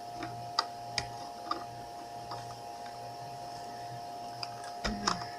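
Scattered light clicks and taps of the plastic parts of a toy remote-control car as its tabs are pushed and the parts handled, with a louder knock near the end, over a steady electrical hum.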